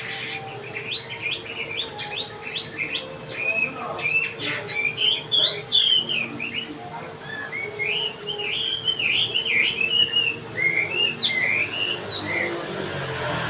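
Male wambi songbird in full song, a busy run of quick chirps and warbled notes with a brief lull about halfway through. A faint steady hum sits underneath.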